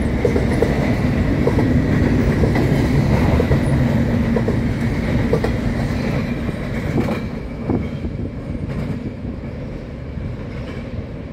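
Double-stack container train's well cars rolling past, the wheels rumbling and clicking over rail joints, with a faint high steady tone above. About seven seconds in, the sound thins and fades as the last car passes and the train rolls away.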